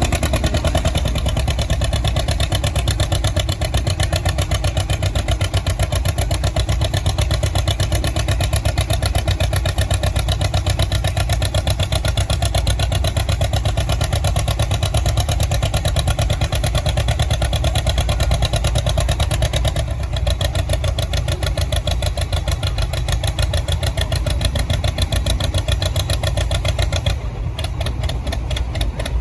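John Deere 50 tractor's two-cylinder engine running steadily and hard in a tractor pull, easing off slightly near the end.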